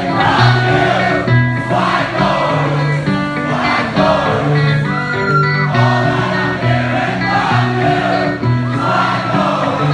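Live rock band playing loudly, with sung vocals over steady held bass notes and guitar.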